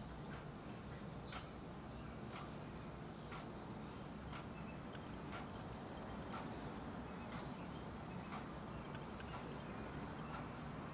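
Short, sharp bird calls repeating roughly once a second, with brief higher chirps in between, over a faint, steady insect trill and low background noise.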